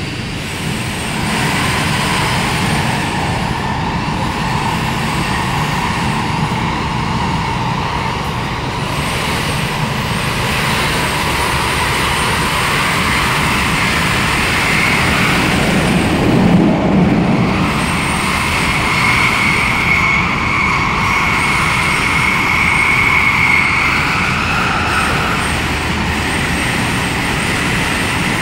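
Inside an MTR K-Train (Tung Chung Line) running at speed: steady rumble of wheels on rails, through a tunnel, with a brief louder low surge about sixteen seconds in and a steady high whine from about nineteen seconds in.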